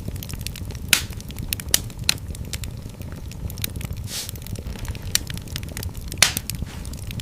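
Fire in a fireplace crackling, with a steady patter of small clicks over a low rumble. Sharp louder pops come about a second in, twice around two seconds, and again past six seconds, and a short hiss comes about four seconds in.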